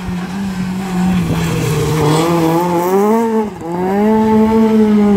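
Rally car engine running at high revs through a bend. The pitch dips briefly about three and a half seconds in, then climbs again.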